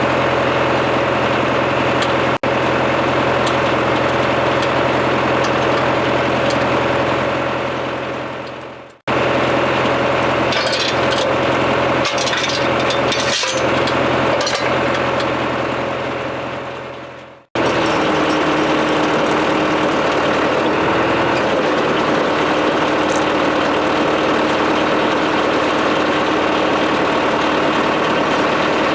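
John Deere 2750 farm tractor's diesel engine running steadily, heard in three stretches that each fade down and then cut off abruptly. In the middle stretch, scattered sharp cracks and clicks sound over the engine.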